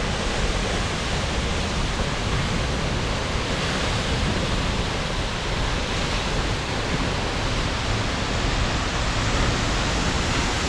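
Seljalandsfoss waterfall heard close up: a steady, unbroken rush of falling water with a deep rumble underneath.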